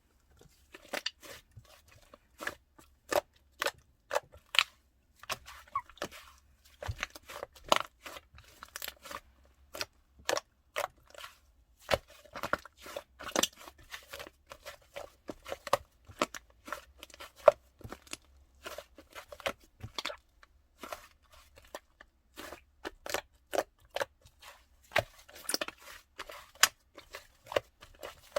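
Irregular crunching and crackling clicks, several a second, in a small room.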